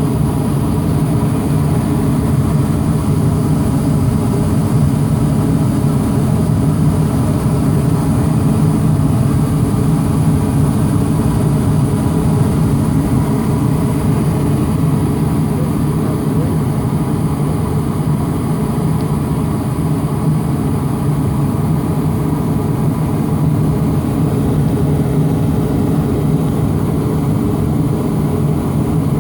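80-plus natural-gas furnace running with its burners lit: a loud, steady rushing noise that does not change.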